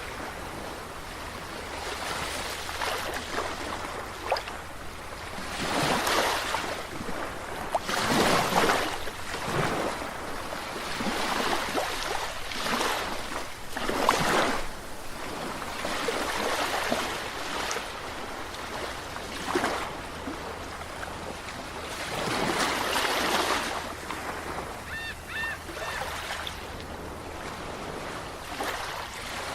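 Sea waves washing in and breaking, surging every few seconds, with a few faint short high chirps about three-quarters of the way through.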